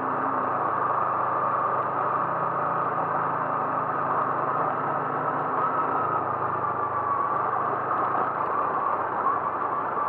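Vehicle travelling on the road: a steady engine hum and road noise, with the low hum fading about seven seconds in.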